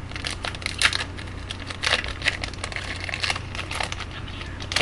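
A trading-card pack wrapper crinkling and crackling irregularly as it is torn open and handled.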